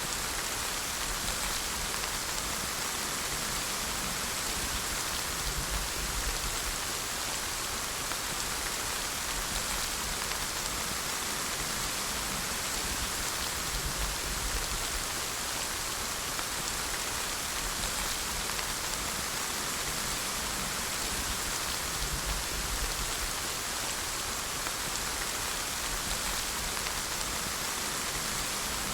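Steady rainfall, a dense even hiss of drops striking a surface, with no change in intensity.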